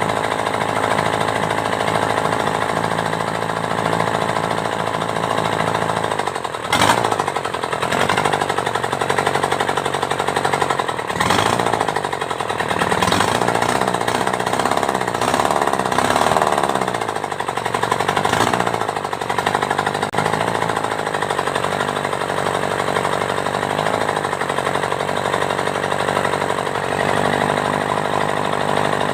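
Kubota V1501 four-cylinder diesel engine running. Its speed rises and falls several times through the middle, with a few sharp knocks, then it settles back to a steady run.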